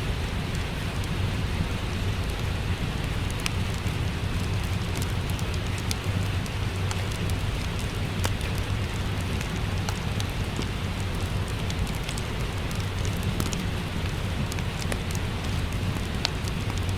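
Steady rain with a low rumble, mixed with the frequent small crackles and pops of a wood fire in a fireplace.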